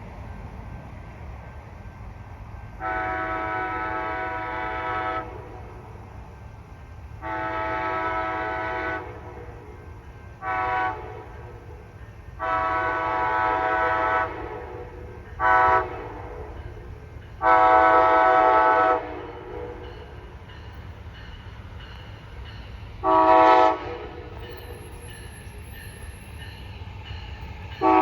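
Multi-chime train horn sounding a chord in a series of blasts: long, long, short, long, then a short and a long one, and another short blast near the end. The opening long-long-short-long run matches the standard grade-crossing signal. A low steady rumble runs underneath.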